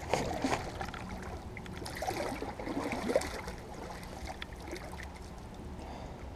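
Water swirling and trickling around an oar as a small dinghy is sculled through a creek, with a few light knocks; the splashing is busiest for about three seconds, then eases off.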